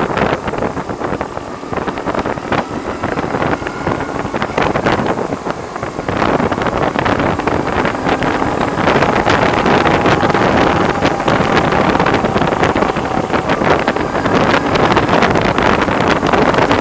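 Heavy wind buffeting on the microphone of a BMW R1100R motorcycle on the move, with the bike's running noise mixed in; it grows louder about six seconds in. The rider blames the wind noise on the screen.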